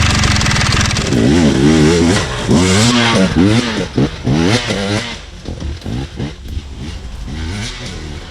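KTM EXC 250 two-stroke enduro bike's engine revving up and down over and over as it is ridden on the trail, loud for about five seconds and then quieter as it moves off.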